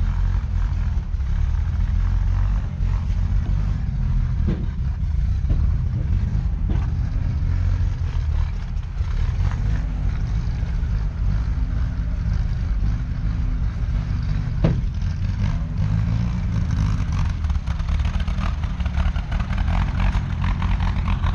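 1975 Massey Ferguson 168's 3.9-litre four-cylinder diesel engine running steadily, with a few short knocks about five, seven and fifteen seconds in.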